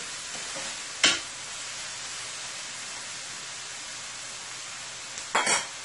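Chopped onion and scallion seasoning sizzling steadily in hot oil in a stainless steel skillet. A spoon clinks sharply against the pan about a second in and knocks again near the end.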